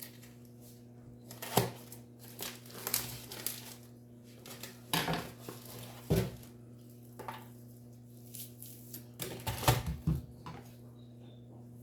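Dishes and kitchen utensils clinking and clattering in irregular knocks, the loudest about a second and a half in and again near ten seconds, over a steady low hum.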